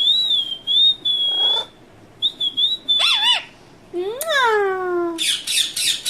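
Indian ringneck parrot whistling a high, wavering note, then giving a call that falls in pitch, and harsh squawks near the end.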